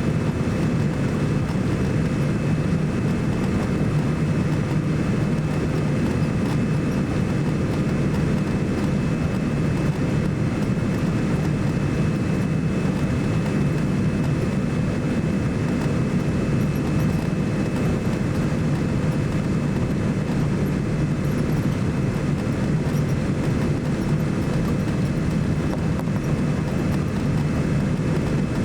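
Steady cabin noise inside a Boeing 787-9 airliner: a low, even rumble of its Rolls-Royce Trent 1000 engines and rushing air, with a faint steady high whine above it.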